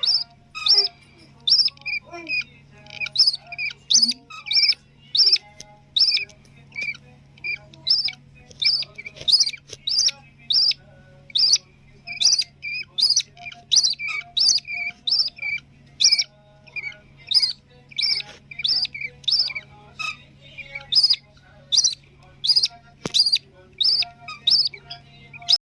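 Budgerigar chicks giving short, sharp begging calls over and over, about two a second, as they are fed. A low steady hum runs underneath.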